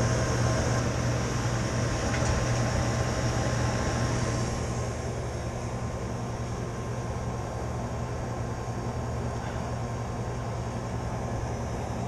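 Walk-in cooler's refrigeration condensing unit running, a steady compressor and fan hum, while refrigerant is being charged into it. A high hiss eases off and the sound drops a little about four and a half seconds in.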